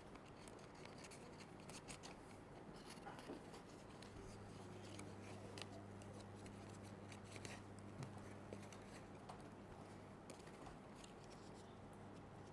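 Faint rustling and small clicks of paper being handled, as glued paper circles are pressed together. A faint low hum joins in about four seconds in and fades near the end.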